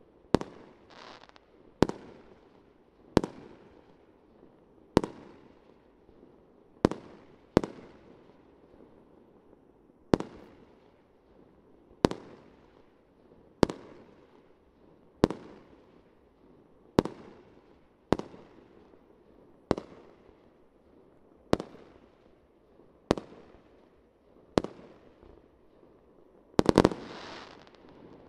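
Fireworks shells bursting one at a time, a sharp bang about every one and a half to two seconds, each fading away after the bang. Near the end a few bangs come close together, louder and with a longer tail.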